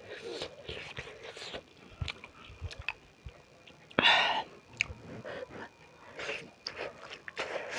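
Close-up mouth sounds of a person eating beef momos: chewing and wet smacking clicks, with one short, loud breathy burst about four seconds in.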